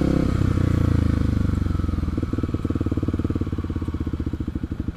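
Kawasaki KLX 250's single-cylinder four-stroke engine dropping slightly in pitch as the bike slows, then settling from about two seconds in into an idle with a rapid, even putter of firing pulses.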